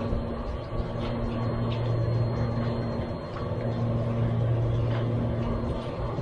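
Steady low rumble of a running motor, with a few faint clicks. No gunshot.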